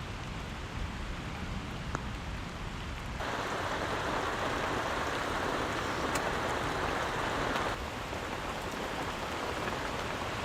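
Heavy storm rain falling, with a wind rumble on the microphone. The rain's hiss grows markedly louder about three seconds in and drops back abruptly around eight seconds.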